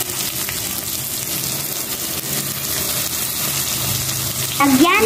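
Salmon steaks sizzling steadily as they fry in oil among sautéed peppers, onion and spices in a steel pan.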